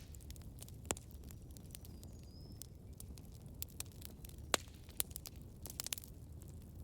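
Campfire crackling: irregular sharp pops and snaps of burning wood over a steady low rumble of the flames. The loudest pop comes about halfway through, with a quick run of snaps near the end.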